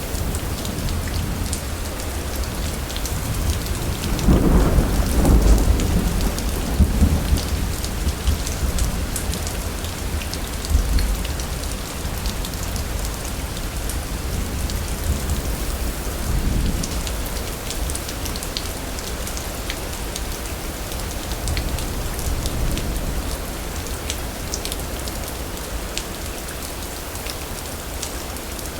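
Steady rain falling with a thunderstorm: a loud roll of thunder rumbles about four seconds in and dies away over several seconds, with fainter rumbles later.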